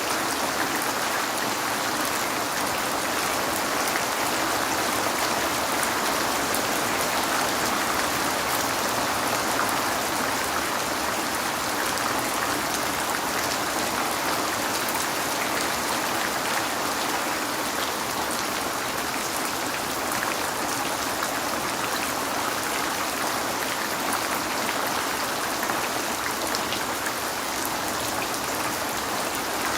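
Steady rain falling, with fine drops pattering on a surface.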